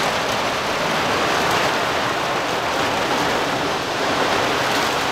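Heavy wind-driven rain pelting down on a converted school bus, a loud steady hiss of rain on its windows and body heard from inside the bus.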